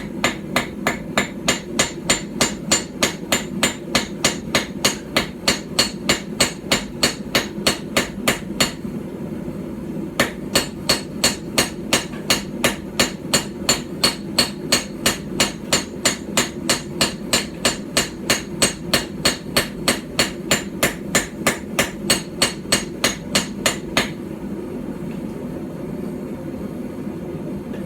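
Small hand-forged hammer striking a hot steel knife blank on a stump anvil in a steady run of about three blows a second, drawing out the blade's bevels. The hammering pauses briefly about nine seconds in and stops about four seconds before the end. A steady low hum runs underneath.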